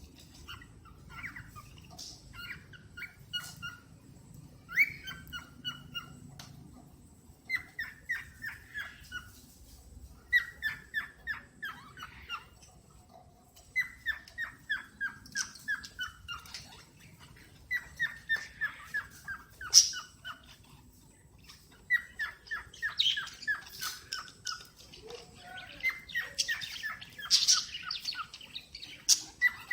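Cockatiel chirping in repeated runs of quick short notes, each run stepping down in pitch over one to two seconds, with short pauses between runs. Near the end, harsher and louder calls join in.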